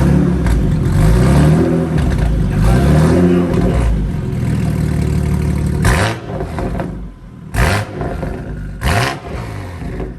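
BMW M240i's turbocharged 3.0-litre straight-six revving through a titanium exhaust. Two slower rises and falls in revs come first, then three short, sharp throttle blips about a second and a half apart.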